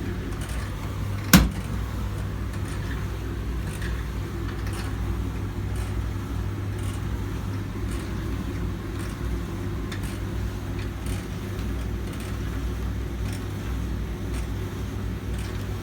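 Hoover washing machine running: a steady low motor hum, with one sharp click a little over a second in.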